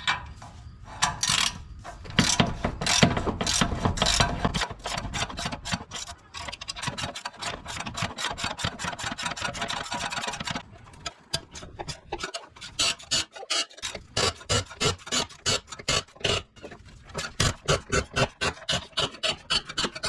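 Exhaust oxygen sensor being unscrewed from its threaded bung with an open-ended wrench: a long run of short, repeated metal strokes, about two to three a second.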